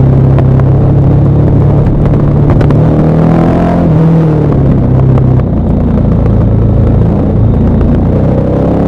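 KTM 1190 Adventure R's LC8 V-twin, fitted with a Wings exhaust, running under way downhill. The note holds steady for about five seconds, drops off a little, and climbs again as the revs rise near the end.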